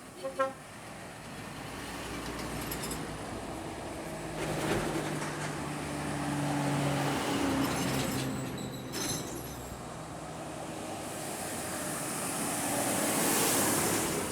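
Scania P420 trucks driving past one after another, engine drone and tyre noise swelling and fading as each goes by, loudest near the end. Two quick horn beeps just after the start.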